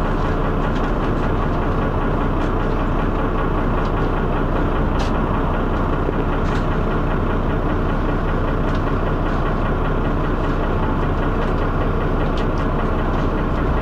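Diesel engine of a Dennis Arrow double-decker bus running steadily with a loud knocking noise and heavy thrash, with frequent short knocks and rattles over the engine note.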